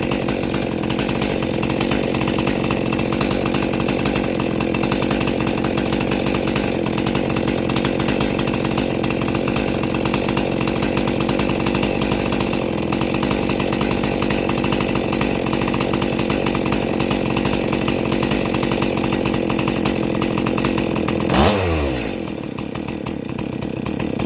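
Stihl 261 two-stroke chainsaw, freshly rebuilt and mildly ported, held at steady high revs while its carburettor is being tuned. About 21 seconds in the throttle is let off and the engine winds down to a lower, steady idle.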